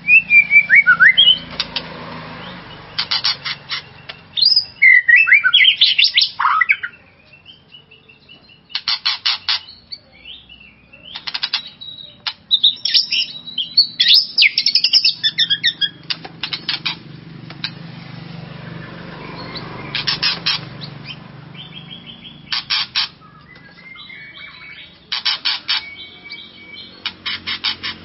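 White-rumped shama (murai batu) singing: loud whistled phrases that slide up and down, broken every few seconds by quick bursts of rapid clicking chatter.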